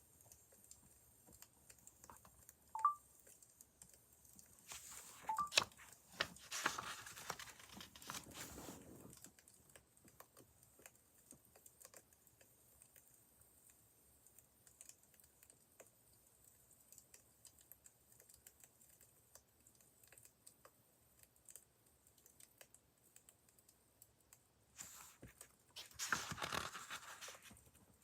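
Wood fire crackling softly, with sparse scattered pops and two brief squeaks early on. Two longer, louder spells of crackle and rustle come a few seconds in and again near the end.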